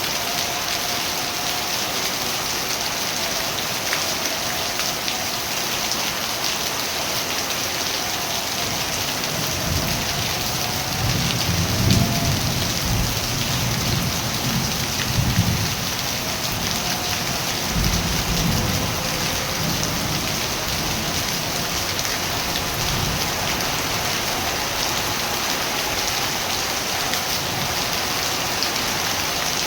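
Steady rain falling, with low rolls of thunder from about ten seconds in to just before twenty seconds, peaking three times.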